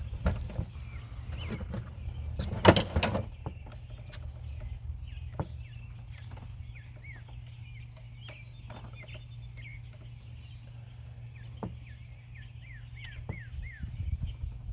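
Scattered knocks and clatter from hand work under a pickup's hood, loudest a sharp clatter between two and three seconds in. A bird chirps in runs of short falling notes later on, over a steady low hum.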